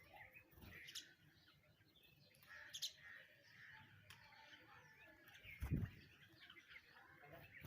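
Birds chirping faintly in short, scattered calls, with one soft low thump about three-quarters of the way through.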